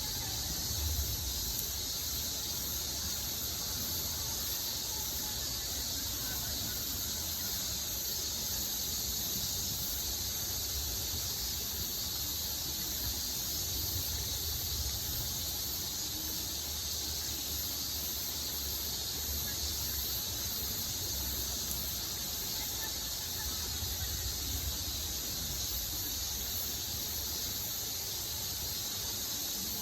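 Steady riverside ambience: a constant high-pitched hiss over a low rumble, unchanging throughout.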